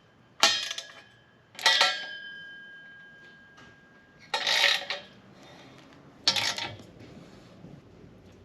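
Four separate metal clanks of wrenches and sockets against the steel exhaust hardware as its bolts and nuts are tightened. The second clank leaves a thin ringing tone that fades over about two seconds.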